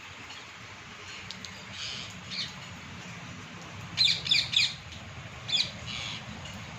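Parrot squawking in short, harsh calls: a quick run of three loud squawks about four seconds in and another a second and a half later, with fainter calls before and after.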